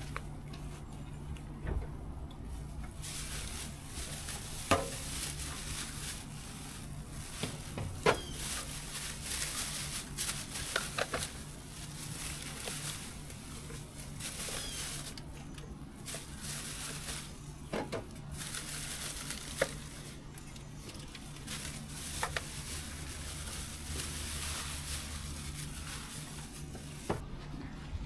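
A steady low hum under a shifting hiss, with scattered short clicks and knocks, the sharpest about five and eight seconds in.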